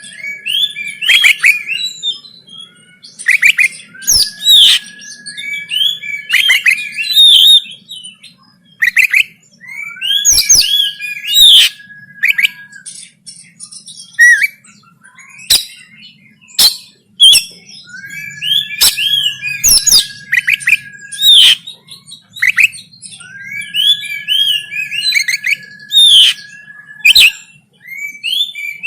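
Oriental magpie-robin (kacer) singing in loud, rapid, varied chirping phrases, with a long steady whistle held beneath them for two to three seconds at a time, about five times, and sharp clicks scattered between the phrases.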